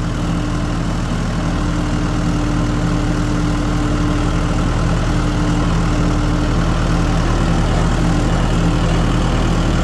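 Tractor engine running steadily, heard from the operator's seat.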